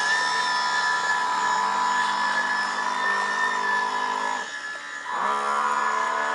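Radio-controlled wooden scale model boat's motor whining steadily under way. About four and a half seconds in, the whine drops in pitch and fades as the throttle is eased, then rises back up within a second.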